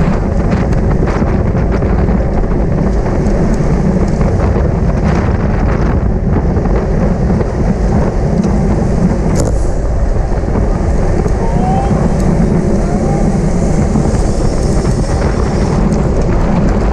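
Steady, loud wind rush buffeting the camera microphone of a bicycle ridden at race speed, mixed with road and tyre noise.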